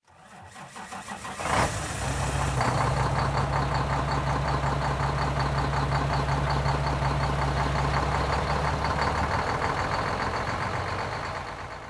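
Peterbilt 386 semi truck's diesel engine starting, catching with a burst about a second and a half in, then settling into a steady idle with an even firing beat.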